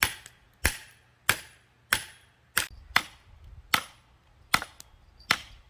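Hatchet chopping wood: a steady series of about nine sharp strikes, roughly one every two-thirds of a second.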